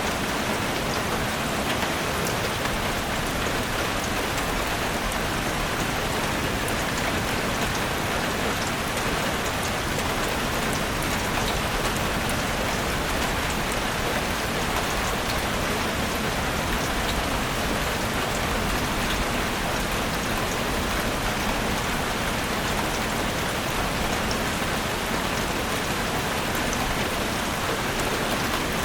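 Steady rain falling in a forest, a dense even hiss with many small drop ticks throughout.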